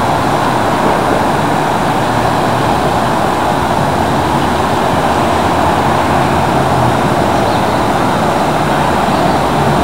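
BNSF diesel locomotive air horn sounding continuously and unbroken, with the locomotive's diesel engines running underneath. It is a horn left blowing nonstop on a stopped train with no engineer aboard.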